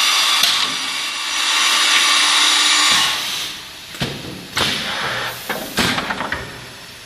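Stemas CNC woodworking machine working a wooden panel: a loud, hissing cutting noise with a faint high whine for about three seconds, which then stops abruptly. It is followed by a few short bursts of noise and knocks as the machine's heads and clamps move.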